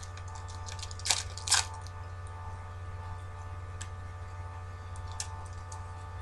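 Foil trading-card packs crinkling and cards rustling as they are handled, with two louder crinkles about a second in, over a steady electrical hum.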